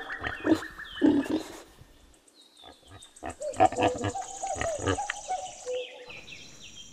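Pigs grunting and squealing, with a short lull about two seconds in.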